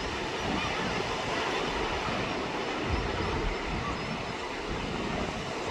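Mediterranean surf washing steadily onto the beach, with wind rumbling on the microphone.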